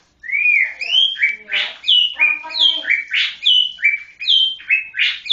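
White-rumped shama (Murai Batu Medan) singing: a quick run of slurred, rising-and-falling whistled phrases, about two a second, mixed with a few harsher notes.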